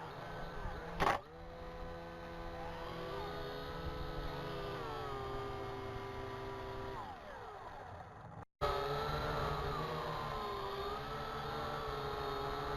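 Syma X8HG quadcopter's motors and propellers whining, the pitch sliding up and down as the throttle changes, over a low rumble of wind. A sharp click about a second in, and the sound cuts out for a moment past the middle before the wavering whine returns.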